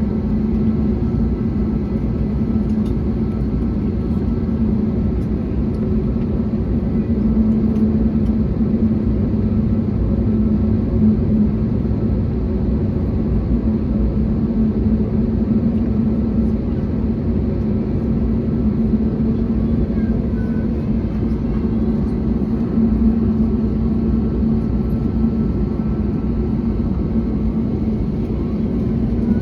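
Steady drone of an Airbus A321neo airliner heard from inside the cabin: its Pratt & Whitney PW1100G geared turbofans and the airflow making an even rumble, with a steady low hum running through it.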